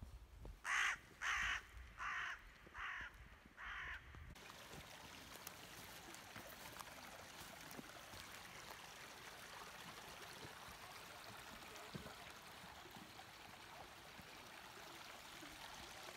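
A crow cawing five times, the calls growing fainter, followed by the steady trickle of a woodland stream.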